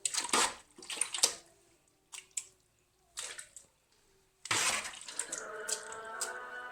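Liquid sloshing and splashing in a container in several short, irregular bursts, with a louder splash about four and a half seconds in. Background music comes in near the end.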